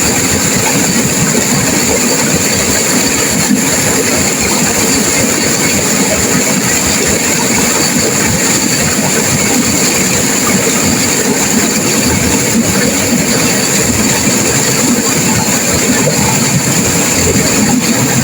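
Turbulent river water crashing through rapids: a loud, steady rushing roar that does not let up.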